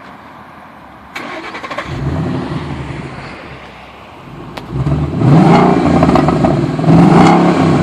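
2011 Ford Mustang GT's 5.0-litre V8 on its stock exhaust. It starts up about a second in, settles, then revs up loudly from about five seconds in and stays loud.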